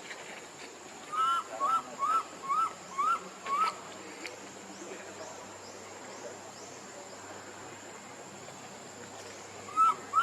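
An animal calling in a quick series: six short calls, each rising and falling in pitch, about half a second apart, then a lull and four more near the end.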